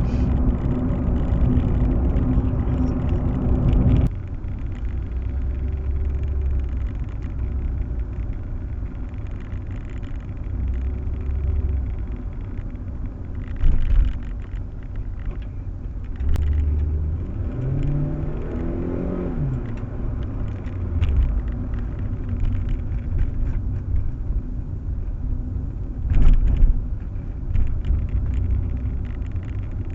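A car on the move with a steady low rumble of engine and road noise. The level drops suddenly about four seconds in, there is a brief swoop in pitch around eighteen seconds in, and a couple of short knocks come later.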